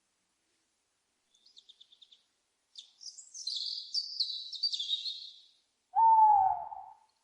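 Small songbirds chirping high and quick, first a short ticking trill and then a busy twittering song, followed near the end by one loud owl hoot about a second long that sags slightly in pitch.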